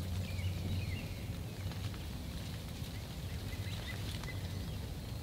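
Faint, short bird calls, mostly in the first couple of seconds, over a steady low rumble.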